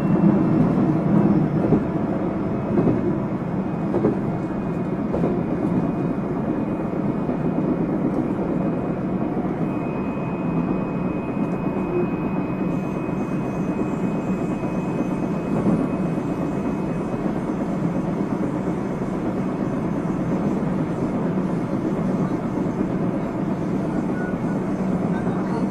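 Interior running sound of a JR Central 373 series electric train: a steady rumble of wheels on rail at speed, with a faint high whine for several seconds midway.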